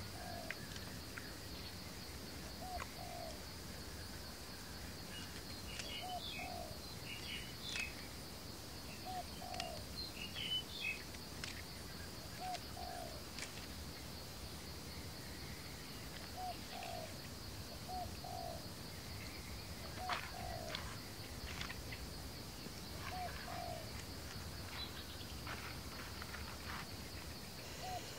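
A bird repeats a short, low two-note call every two to four seconds over a steady, high-pitched insect drone. Scattered light clicks and scrapes come from the grilled eels being worked off a wooden stick.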